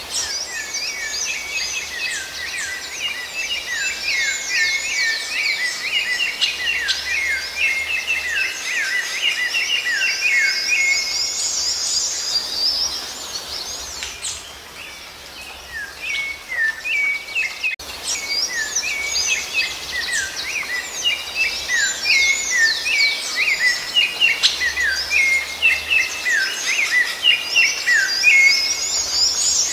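Songbirds singing, a dense stream of quick, high chirps and trills. It thins to a lull about halfway, breaks off sharply, then resumes just as busily.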